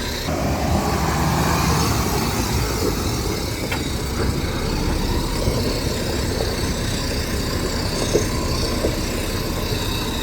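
Heavy diesel earthmoving machinery running steadily, getting somewhat louder just after the start, with a couple of brief knocks.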